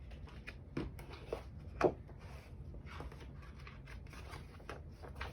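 Paper rustling with light clicks and taps as a picture book is handled and its pages turned, a few louder handling knocks about one and two seconds in.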